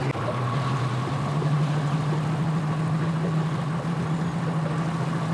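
An engine idling steadily, its pitch rising slightly about a second in.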